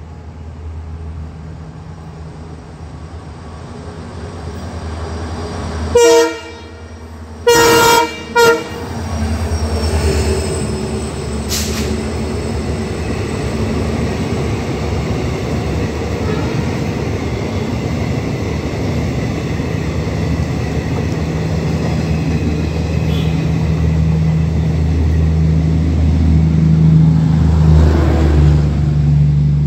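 An EMD WDP 4D diesel locomotive sounds its horn in three blasts, a short one, then after a pause a longer one and a short one. Its train of empty coaches then passes close by with a steadily building rumble and clatter of wheels on the rails, and a low engine drone grows stronger near the end.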